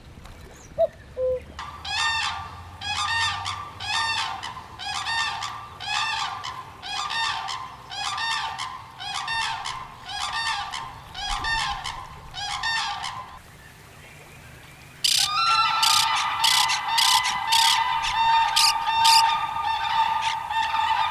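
A bird calling in an even series, about fifteen calls at a little faster than one a second. After a short pause, about two-thirds of the way in, a louder, denser chorus of overlapping bird calls starts suddenly.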